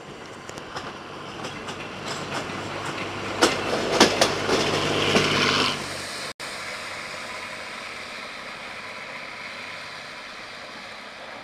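Diesel passenger railcar approaching and passing close by, wheels clattering over rail joints. The sound swells to a run of sharp clicks at its loudest, about four to six seconds in. After a sudden brief dropout it continues as a steadier, slowly fading running sound as the railcar moves away.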